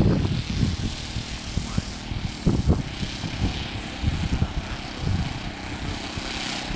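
Engine and propeller of a quarter-scale Cub model airplane running steadily in flight, with wind gusting against the microphone in irregular low bumps.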